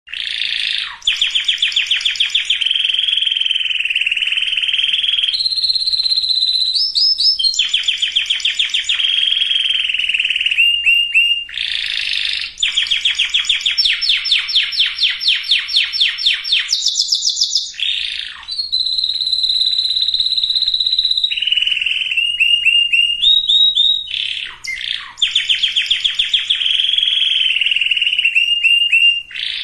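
Canary singing a long continuous song of fast trills and rolls, switching to a new repeated phrase every second or two, with a few short breaks.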